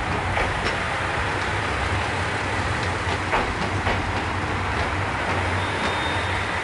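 A train running on the tracks close by: a steady rumble of wheels on rail with a few sharp clicks over rail joints, and a thin high wheel squeal near the end.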